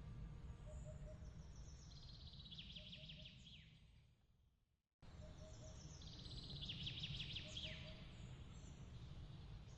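Soft nature ambience: a low steady rumble of breeze under a rapid, high chirping trill. The sound fades out to silence about five seconds in, then starts again and the same trill repeats, as a looped ambience track restarts.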